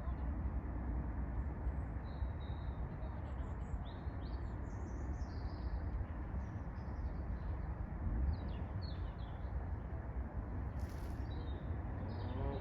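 Birds chirping: many short, high chirps scattered throughout, over a steady low background rumble.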